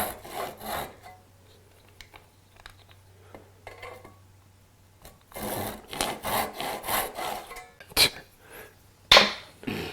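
Hand saw cutting wood in quick back-and-forth strokes, about three a second. The strokes stop for a few seconds in the middle, and a sharp click comes near the end.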